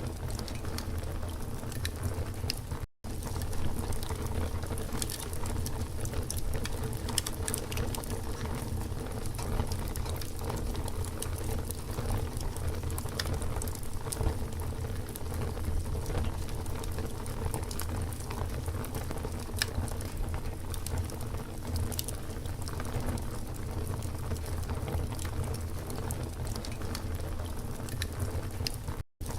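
Campfire burning with a steady rush and many small sharp crackles and pops scattered throughout. The sound cuts out for an instant about three seconds in and again just before the end.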